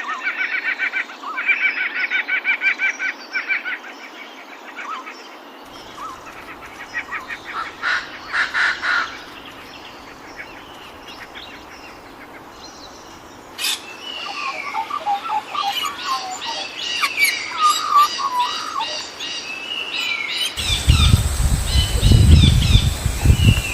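Several birds chirping and calling, opening with a fast repeated trill of chirps. About three seconds from the end, a low rumble and a steady high whine come in under the calls.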